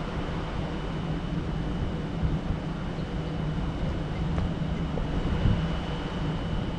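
A train running at the station: a steady low rumble with a faint, even high whine over it.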